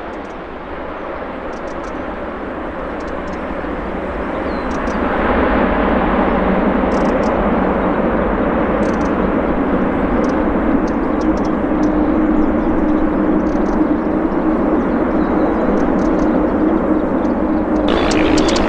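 Jet airliner engines, a loud roar that grows over the first five seconds and then holds steady, with a low steady hum coming in about halfway through. The sound changes abruptly just before the end.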